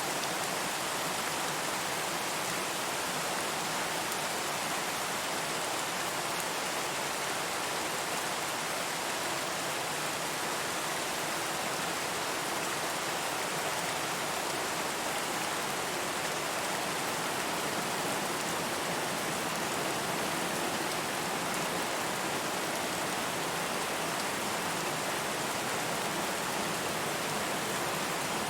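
Steady rain falling on a surface, an even hiss without distinct drops or thunder.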